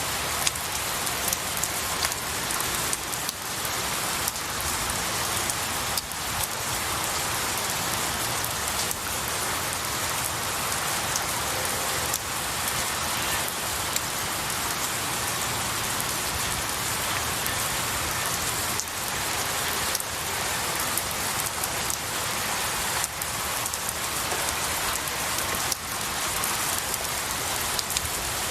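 Steady rain falling on pine needles and branches, a dense even hiss with individual drops ticking through it.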